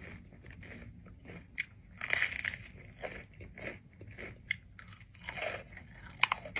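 Close-miked eating: bites into crunchy food and chewing, in irregular crunches, with a sharp crackling bite just after six seconds in.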